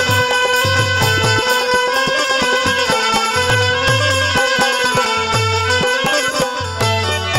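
Instrumental interlude of live Haryanvi ragni folk accompaniment: a sustained melody instrument holds long notes over a steady pattern of deep hand-drum beats.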